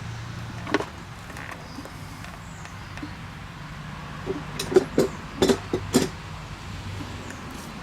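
Metal parts and hand tools clinking and knocking while the rear brakes of a Ford NAA tractor are taken apart: one sharp clink about a second in, then a quick run of knocks near the middle, over a steady low hum.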